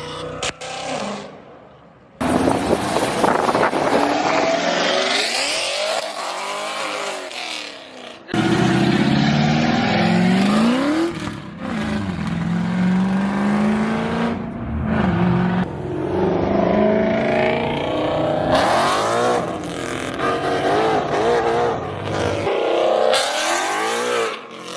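Car engines revving hard and accelerating away in a run of short clips cut together, the engine pitch climbing and dropping sharply with each rev and gear change. The sound changes abruptly at each cut.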